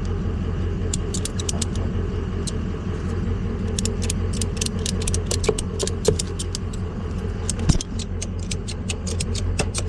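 Tow truck engine idling steadily, with many light, sharp clicks and ticks scattered irregularly over it.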